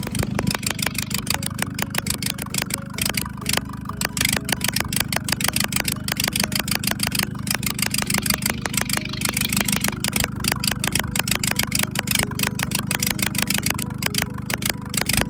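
Nissan Navara D40 diesel engine idling, with a rapid, uneven pulsing from the exhaust. The engine is pushing engine oil out through the exhaust with white smoke, a fault the owner puts down to something like a blown head gasket, broken piston rings or worn valve guides.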